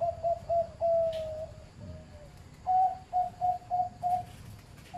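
Zebra dove cooing in a medium-pitched 'middle voice': a run of short coos with one longer drawn note, then after a short pause a louder note followed by four quick coos.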